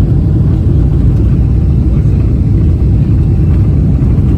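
Jet airliner heard from inside the cabin: a loud, steady low rumble of engines and airflow.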